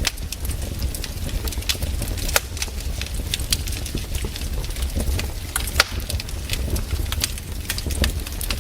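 Campfire burning, wood crackling with irregular sharp pops over a low steady rumble; one louder pop comes a little before six seconds in.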